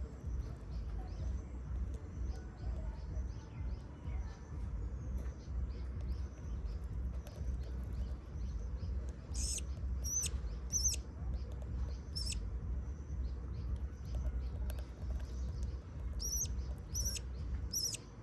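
Budgerigars giving short, high chirps: a few scattered about halfway through and a quick cluster near the end, over a steady low rumble.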